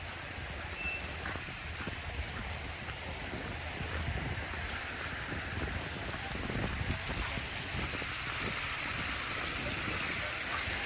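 Wind rumbling on the microphone over a steady hiss of city street noise. The hiss grows louder toward the end.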